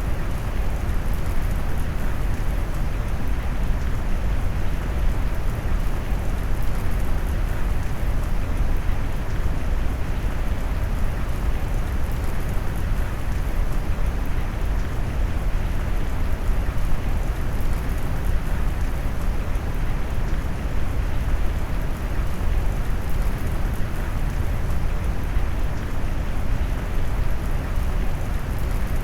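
Steady rain noise mixed with brown noise: a deep, even rumble under a wash of rain hiss. It is constant throughout, with no drops or thunder standing out.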